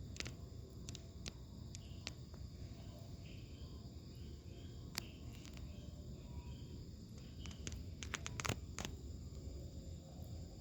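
Steady high-pitched insect chirring, with scattered sharp clicks and a cluster of clicks near the end.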